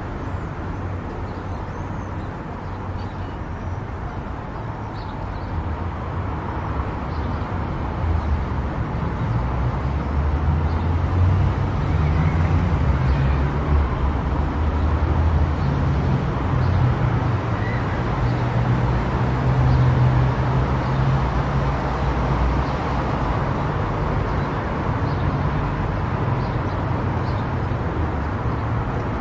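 Steady road and engine noise of a car travelling at highway speed: a low rumble under a hiss of tyre and wind noise. It grows louder about eight seconds in and stays up.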